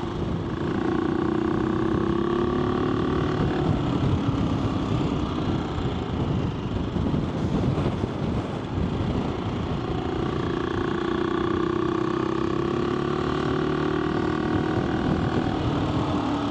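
AJP PR7 motorcycle's single-cylinder engine running at a steady cruise, with low wind rumble on the microphone. The engine note is clear for the first few seconds and again from about ten seconds in, and is drowned by the rumble in between.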